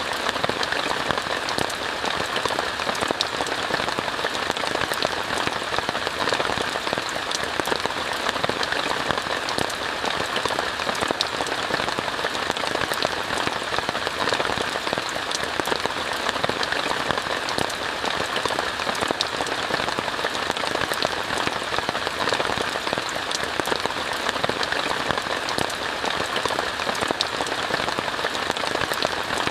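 Steady rain falling on a tent, heard from inside: an even hiss of rain with many small drop taps.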